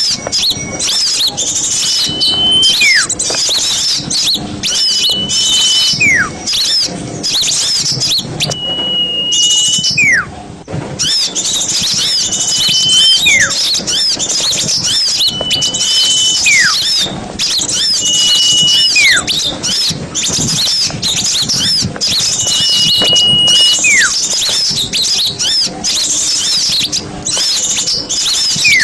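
Noisy chorus of small birds chattering with dense high chirps, over which a whistled call repeats every few seconds: a steady note held briefly, then sliding down in pitch. This is a bird-lure recording of small birds.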